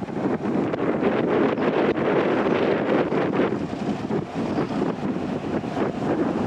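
Wind buffeting the microphone, over the steady noise of a ro-ro ferry and the water around it.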